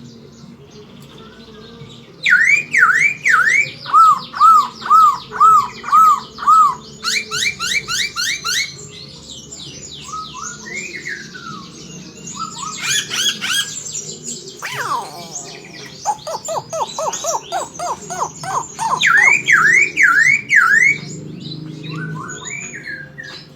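Red-billed leiothrix (Pekin robin) singing a loud, varied song. It starts about two seconds in and runs through many phrases of quickly repeated whistled notes and slurs.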